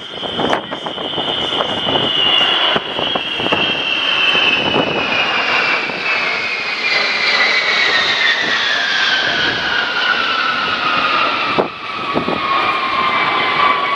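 Boeing B-52H Stratofortress flying past on its eight Pratt & Whitney TF33 turbofan engines: a loud, steady jet roar with a whine that slides steadily down in pitch as the bomber passes.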